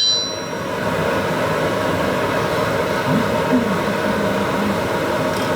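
Forge running with a steady, even rushing noise. The ring of the last hammer blow on the steel fades out just at the start.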